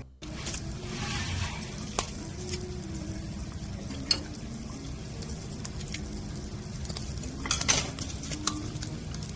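Food sizzling on a barbecue grill, with a few sharp clinks of utensils and dishes: one about two seconds in, one about four seconds in, and a short cluster near the end.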